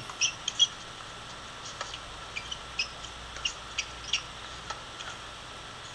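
Small birds chirping: a dozen or so short, high chirps scattered irregularly over faint background noise.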